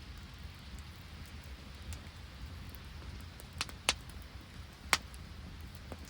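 Steady hiss of rain falling around an open wood campfire. A little past the middle come three sharp pops from the burning wood, two close together and a third about a second later.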